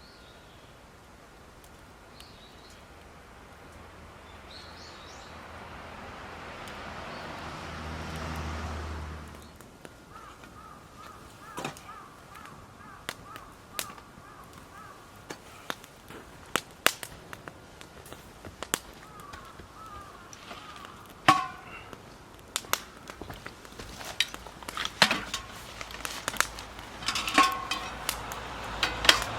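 Sharp pops and crackles, few at first and coming more and more often toward the end, after a hiss that swells and cuts off suddenly about nine seconds in.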